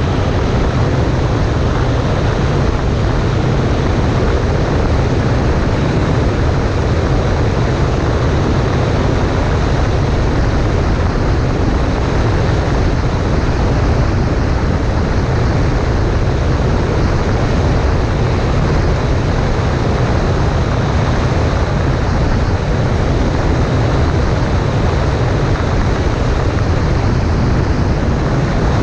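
Cessna 140A light plane in flight: the engine and propeller drone steadily, mixed with airflow noise, with no change in pitch or level.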